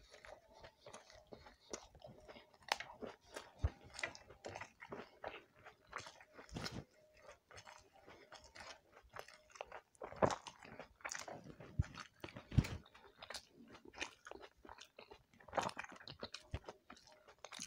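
A person chewing and biting mouthfuls of roti with cauliflower and potato curry (gobhi aloo bhaji), close to the microphone: many short, irregular mouth clicks, with a few louder ones about ten to thirteen seconds in.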